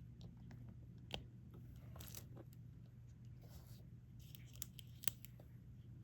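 Light clicks and soft rustling of diamond painting by hand: a drill pen picking up small resin drills and pressing them onto the sticky canvas. There are a few sharper clicks, one about a second in and two near the end, over a low steady hum.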